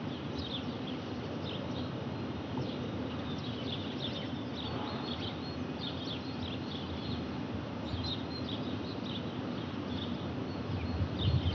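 Small birds chirping, many short repeated calls, over a steady outdoor hiss.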